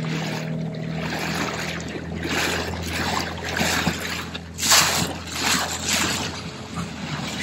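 A small dinghy outboard motor running at low speed with a steady hum. Water splashes and sloshes over it in short washes, the loudest about five seconds in.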